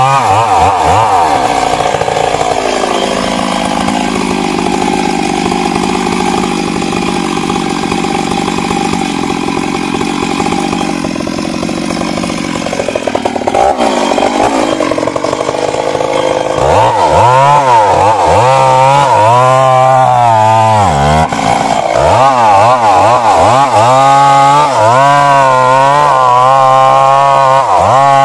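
Stihl MS 382 two-stroke chainsaw running under load, cutting into wood. The pitch holds steady for about ten seconds, then wavers up and down again and again through the second half as the load on the chain changes.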